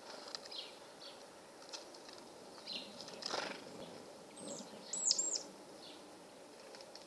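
Small wild birds chirping around a hanging wooden feeder, with scattered short high calls. About five seconds in comes the loudest call, a quick run of high arching notes, and a little past three seconds in there is a brief rushing sound.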